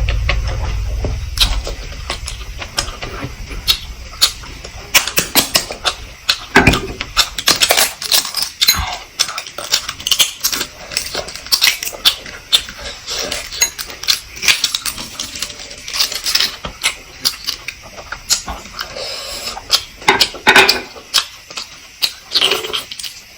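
Close-miked eating sounds of someone eating boiled fertilized (baby) eggs: irregular wet chewing, lip smacks and slurps with sharp clicks. A low rumble fades out in the first couple of seconds.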